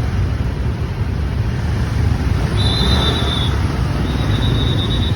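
Road traffic with engines rumbling steadily as vehicles pass. Two high, steady tones, each about a second long, sound in the middle and near the end.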